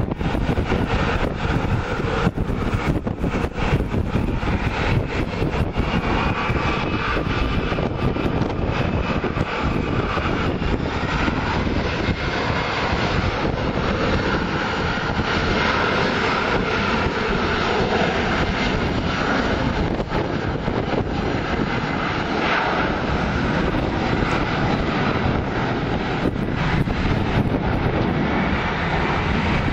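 An Embraer 190 airliner's twin GE CF34-10E turbofan engines during takeoff, a steady loud jet rush with faint whining tones that shift slowly in pitch.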